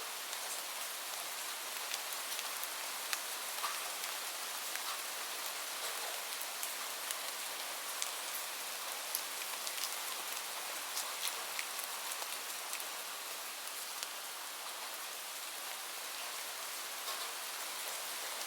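Steady gentle rain, an even hiss with scattered sharp clicks and ticks.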